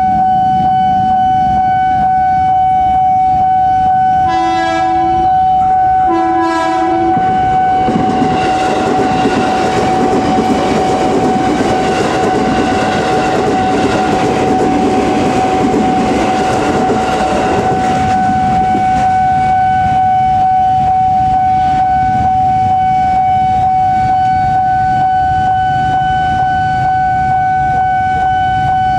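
Level-crossing warning alarm sounding a steady electronic tone throughout. An electric commuter train (KRL multiple unit) gives two horn blasts of about a second each, about four and six seconds in, then runs over the crossing with wheel-on-rail rumble for about ten seconds. The alarm keeps sounding after the train has gone.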